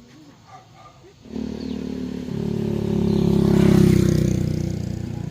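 A motor vehicle engine comes in suddenly about a second in, grows louder to a peak, then eases off as it passes close by.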